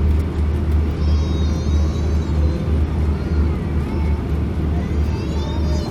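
Steady low rumble in the cabin of an Airbus A340-600 standing still on the taxiway.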